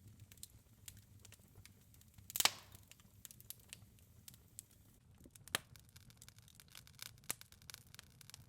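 Faint crackling of a wood fire in a fireplace: scattered small pops, with a louder crackle about two and a half seconds in and another about five and a half seconds in.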